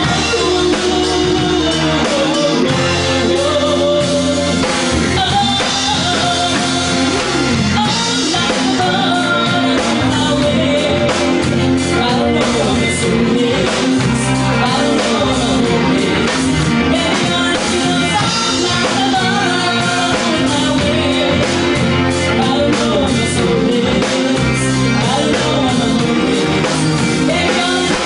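Pop song playing: a singing voice over guitar, bass and a drum kit.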